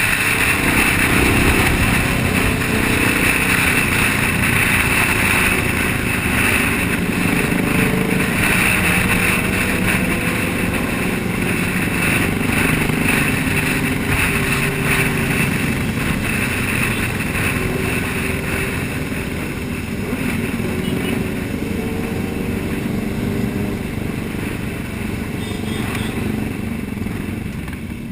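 Several motorcycle engines running together, their pitches drifting up and down, over a steady rush of wind and road noise.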